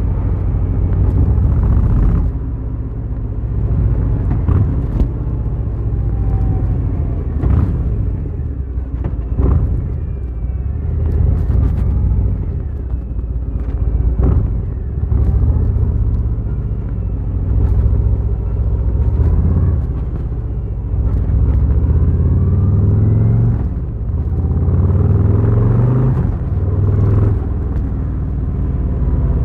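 Harley-Davidson Fat Boy's V-twin engine running under way with a steady low rumble. Twice in the second half its revs climb in rising pulls.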